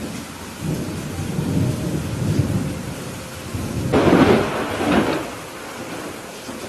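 Thunderstorm: steady rain with rolling thunder that builds about half a second in and peaks in a louder crack about four seconds in, then rumbles away.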